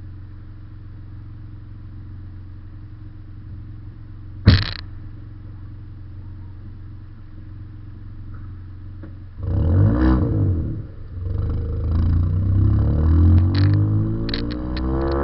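Ford Fiesta's EcoBoost engine through a Cobra cat-back performance exhaust, heard at the tailpipe end of the car: it idles steadily with a single sharp thump about four and a half seconds in, then from about nine seconds in it revs up and down as the car pulls away.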